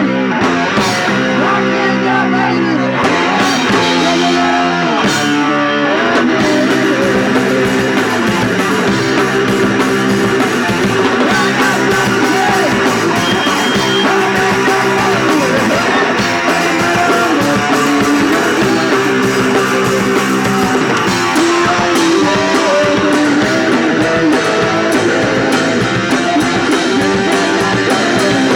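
Punk rock band playing live: loud, distorted electric guitar with drums.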